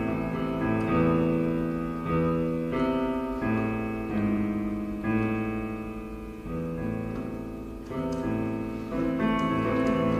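Background piano music: slow sustained chords, new notes struck about once a second.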